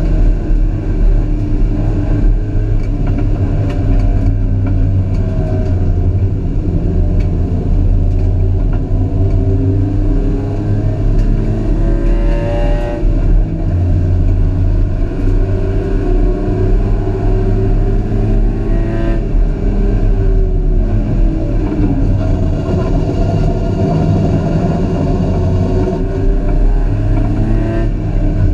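Dacia Logan Cup race car's engine heard from inside the cabin under hard acceleration on track, the revs climbing and dropping back several times as it changes gear.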